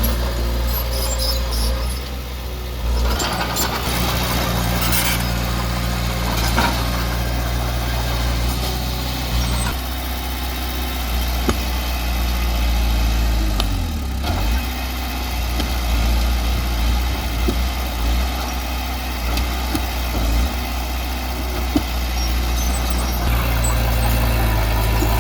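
Diesel engine of heavy earthmoving machinery running steadily, its note shifting a few times, with a few sharp knocks.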